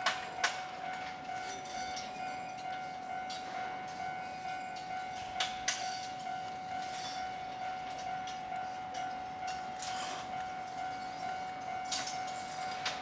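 A train running past on the Tōkaidō Main Line, its wheels knocking irregularly over rail joints. A steady high tone sounds throughout.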